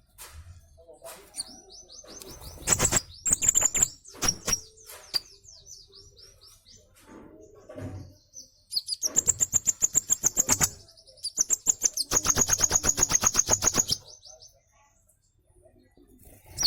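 Olive-backed sunbird (konin) singing: scattered high chirps, then two fast, loud trills of rapidly repeated notes, each about two seconds long.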